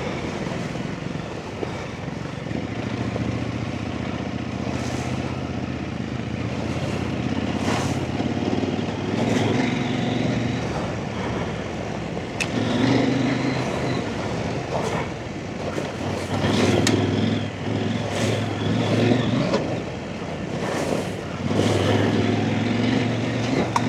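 Off-road trail motorcycle engine running as it is ridden, its note rising and falling with the throttle, with a few short sharp knocks along the way.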